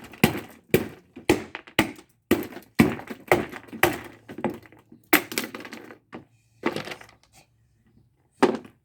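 Axe blows smashing a cheap, brittle exhaust fan: a dozen or so sharp thunks and cracks, about two a second at first, then fewer and further apart in the second half.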